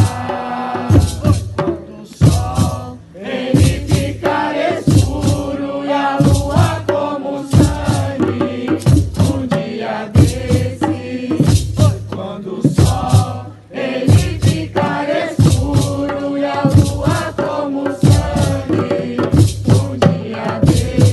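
Nyahbinghi drumming with group chanting: a steady pattern of drum strikes with a deep low thump on the beat, under voices singing a slow chant together.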